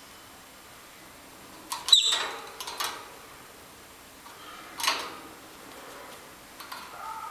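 Peach-faced lovebirds giving three short, sharp chirps, the loudest about two seconds in.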